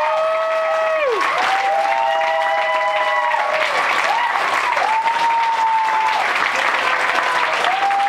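Club audience applauding, with long whooping cheers rising and falling over the clapping.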